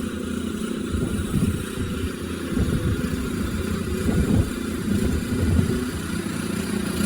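Small David Bradley tractor engine running steadily, with a few brief swells in level.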